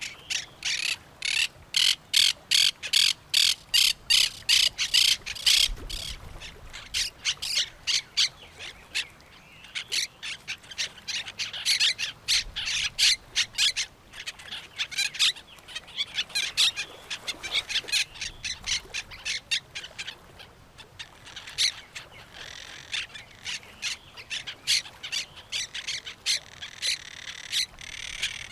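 Parrots squawking among other birds: runs of short, harsh calls, several a second, coming in bursts with brief lulls between them.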